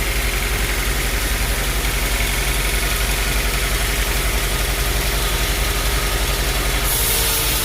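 Sawmill machinery running steadily: a low engine-like drone with a constant hiss over it. The hiss turns sharper and brighter about seven seconds in.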